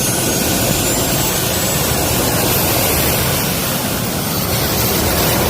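Jet engine running at a steady speed: a loud, even rush with a thin high-pitched whine above it.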